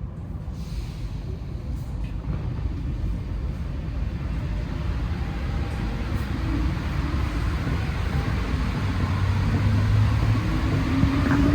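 Inside an Alstom NS-16 metro train pulling away from a station and accelerating. The running rumble grows steadily louder, and the traction motors' whine climbs in pitch, strongest near the end.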